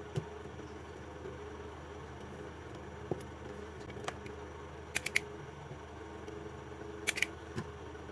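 Scattered light clicks and taps, including a quick run of three about five seconds in and a pair near the end, from a wire connector being plugged in and small parts being handled. A steady low hum runs underneath.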